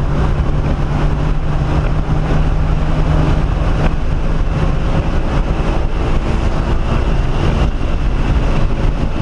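1997 SVT Cobra Mustang's 4.6-litre DOHC V8 running hard at a steady pitch at high speed on the track, heard inside the cabin over wind and road noise.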